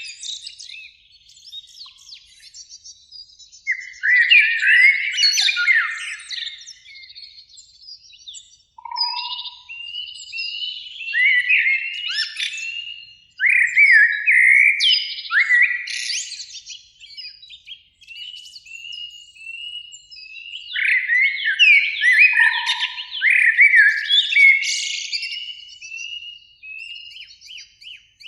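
Common blackbirds singing: phrases of fluting, warbling whistles every few seconds, each trailing into higher twittering, with quieter twitters in between.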